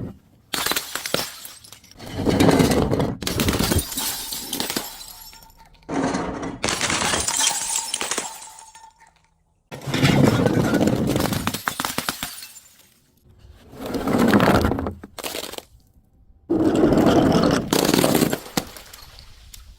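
Glass bottles being smashed and crushed: a series of about seven separate crashes of breaking glass, each starting suddenly and dying away over a second or two.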